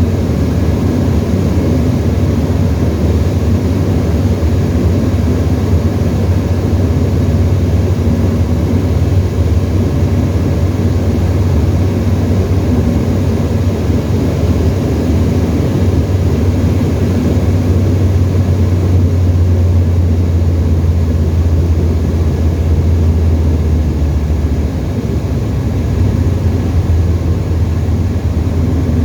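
Engine and propeller of a Tecnam ultralight aeroplane droning steadily in flight. Near the end the drone drops a little in level and its deepest note fades.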